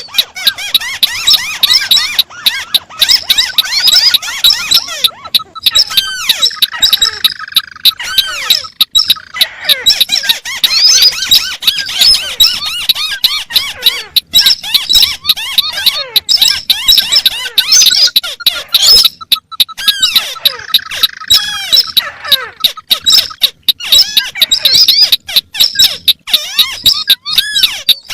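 Layered recordings of crake calls, white-browed crake among them, played together as a bird lure. They make a dense, loud, continuous chatter of rapid squeaky notes that overlap out of rhythm. Twice a longer, lower call rises out of the chatter.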